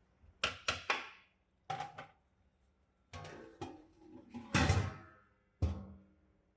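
Metal cooking vessels and lids clanking: about seven knocks with a brief metallic ring, the loudest about four and a half seconds in.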